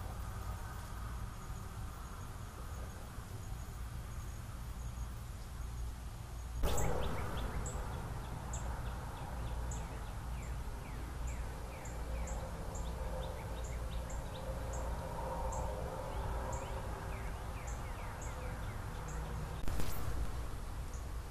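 Trail-camera microphone audio: a steady low hum and hiss. Through the middle, birds give short, high chirps over and over, some sliding down in pitch. There are two sharp clicks, about seven seconds in and near the end.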